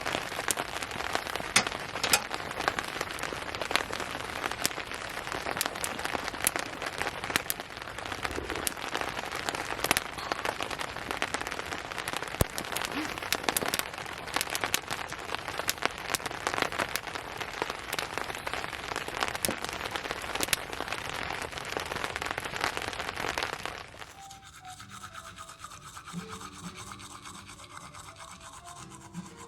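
Heavy downpour, dense rain with many sharp drop ticks hitting close by. About 24 seconds in it cuts off to something much quieter.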